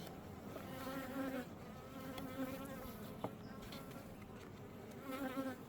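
Honey bees buzzing as they fly close past, in several swelling and fading passes with a wavering pitch; the bees are agitated. One light click about three seconds in.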